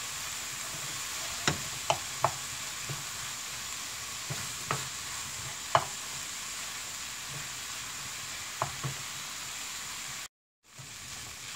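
Fried rice with minced vegetables sizzling in an oiled frying pan, stirred with a wooden spatula that knocks against the pan about six times. The sound cuts out for a moment near the end.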